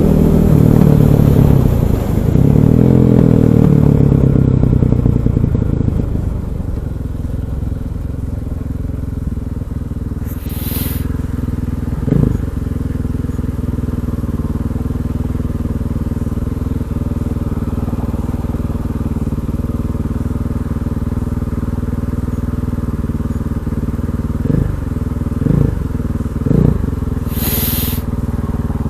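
KTM 500 EXC's single-cylinder four-stroke engine running. It is loud with the revs sliding down in the first few seconds, then settles into a steady low-rev run with a short throttle blip about twelve seconds in and three quick blips near the end.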